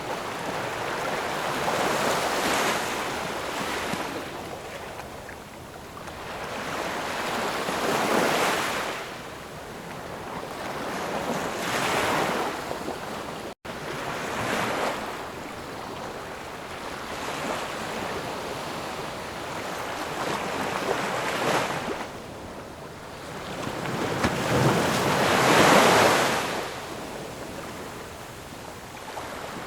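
Ocean waves breaking and washing ashore, the surf rising and falling in surges every four to six seconds, with one momentary cut-out near the middle.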